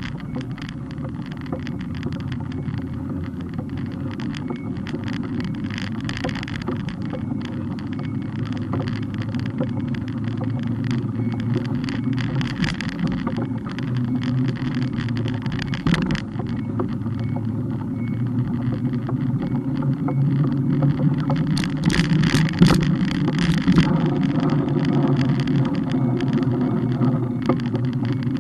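Riding noise from a camera mounted on a moving bike: a steady low rumble of road and wind with frequent rattles and knocks from bumps in the surface. There is a sharp knock about halfway through and a burst of louder rattling a little later.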